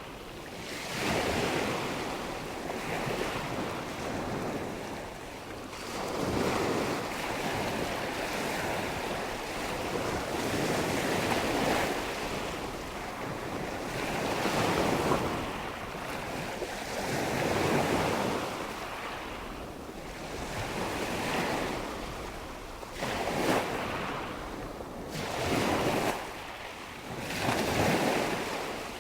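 Nature ambience of wind and rushing water, a steady noise that swells and ebbs every few seconds.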